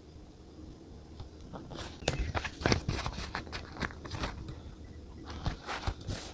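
Close-up handling of stationery on a desk: a run of irregular small clicks and taps that starts about two seconds in, over a low steady room hum.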